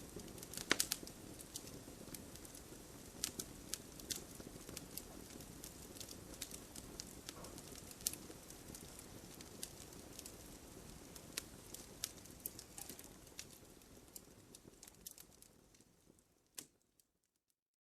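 Wood fire burning in a fireplace: irregular sharp crackles and pops from the burning logs over a low, steady rush of flame. The sound fades out toward the end to silence, with one last pop just before it goes quiet.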